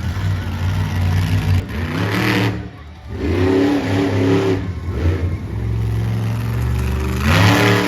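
Monster truck engine revving hard in repeated surges, its pitch climbing with each one. It drops off briefly about three seconds in, then revs up again and surges once more near the end.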